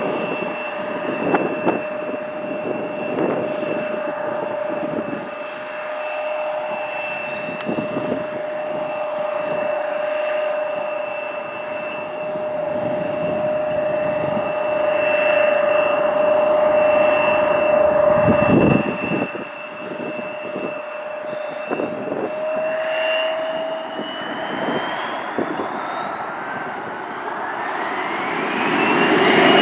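Jet airliner engines running with a steady two-tone whine over a rushing hum. Near the end the whine rises in pitch and the sound grows louder as the engines spool up under added thrust.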